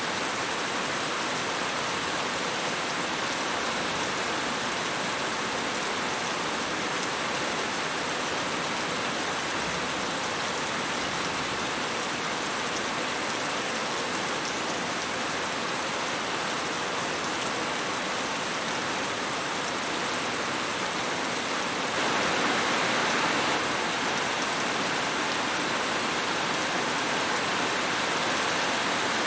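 Steady rain falling and pattering on surfaces, a continuous even hiss, briefly a little louder about three quarters of the way through.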